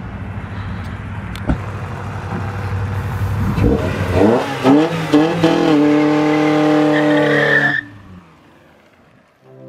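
Old white Honda Accord sedan accelerating hard toward and past the camera: the engine hum swells, then its pitch climbs in several upward sweeps and holds high and loud before cutting off suddenly. Background music begins right at the end.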